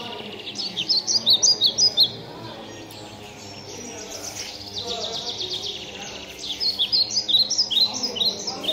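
Small birds singing, with rapid high chirps and trills coming in two loud bursts, about half a second in and again about six and a half seconds in, over a low background murmur.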